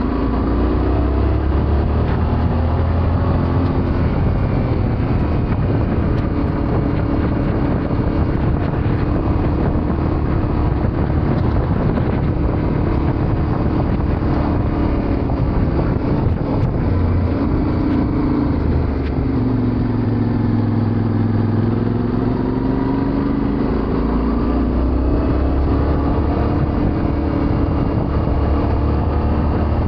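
Yamaha Ténéré 700's parallel-twin engine running under way, its pitch slowly rising and falling with the throttle, over a steady rushing noise.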